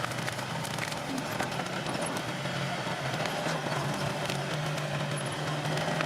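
Komatsu D21P bulldozer's diesel engine running steadily, with scattered light clicks and clanks over it.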